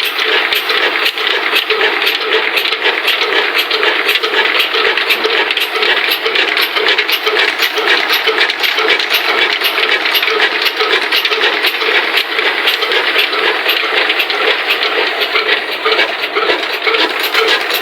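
Old single-cylinder 'black engine' diesel and the stone flour mill (atta chakki) it drives, running steadily: a loud, even mechanical clatter with regular sharp clicks about three a second.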